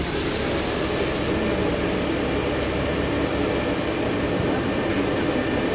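Steady engine and cabin noise inside a LiAZ-6213.65 articulated city bus halted at a stop. A pneumatic hiss from the air system fades out about a second and a half in.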